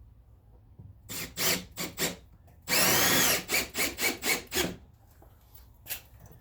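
Power drill driving a bigger screw through a door hinge into the jamb: a few short bursts, one longer run with the motor speed rising and falling, then a string of short trigger pulses as the screw seats. The longer screw draws the sagging door in toward the jamb so it stops rubbing.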